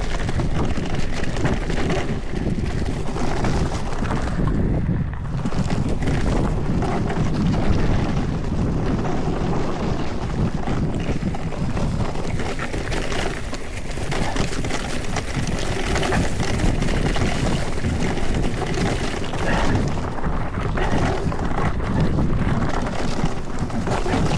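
Mountain bike descending a rough dirt trail at speed: tyres rolling and crunching over stones and ruts, the bike rattling and knocking over bumps, with wind buffeting the microphone. The noise eases briefly about five seconds in and again a little past halfway.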